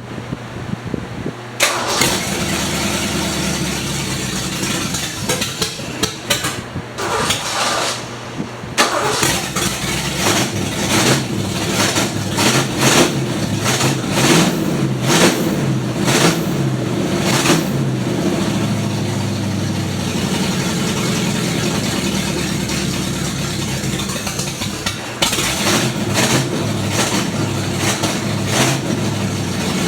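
Ford Mustang's carbureted engine catching about two seconds in, then running loud through brand-new open headers with no exhaust behind them. The throttle is opened repeatedly, giving surges in the engine note.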